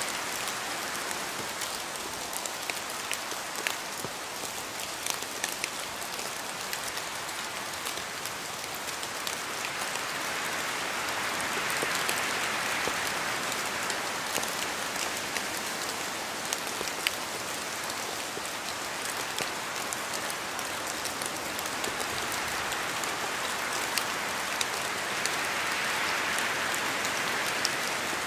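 Steady rain falling, a dense hiss with scattered individual drops ticking through it, swelling a little twice.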